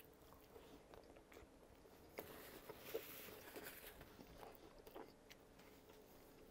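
Faint close-miked chewing of a mouthful of hot dog and bun, with soft wet mouth clicks.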